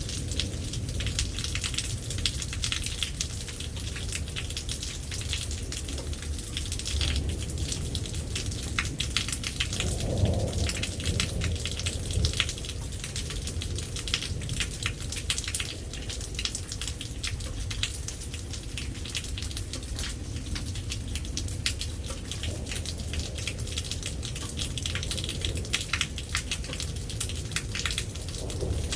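Heavy rain pattering steadily on surfaces, with a low rumble of distant thunder underneath that swells about ten seconds in.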